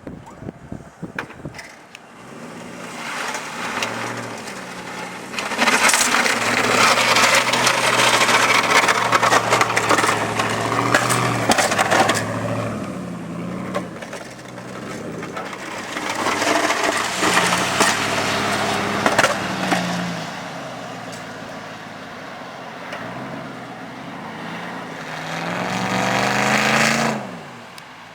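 Chevy Z-71 4x4 pickup's engine revving and pulling under load while plowing snow, with two long stretches of loud scraping and crunching as the plow pushes through the snow. Near the end the engine note rises, then falls away and the level drops suddenly.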